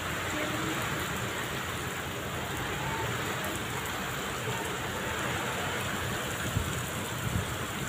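Heavy rain pouring steadily onto muddy ground and puddles, an even, unbroken wash of sound.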